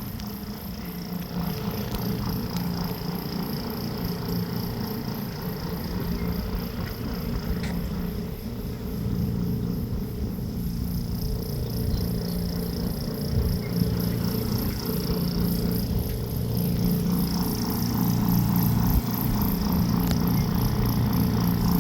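Cat purring, a steady low rumble that swells and eases every second or two.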